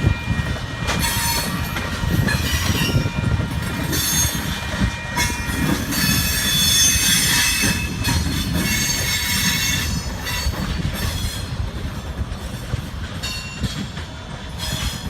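Freight train cars rolling past with a steady low rumble of wheels on rail, and the steel wheels squealing in repeated high-pitched bursts, the longest and loudest about six to eight seconds in.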